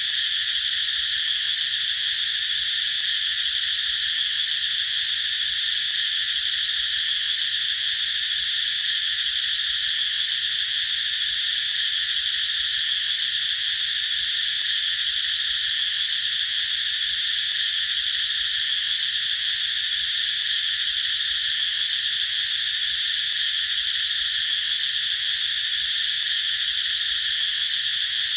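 Cicadas buzzing in a continuous, unbroken high-pitched drone.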